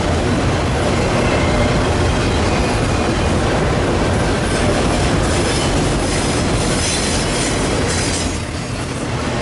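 A train's railroad cars rolling past, a steady heavy rumble and rattle of wheels on the rails, briefly dipping in loudness near the end.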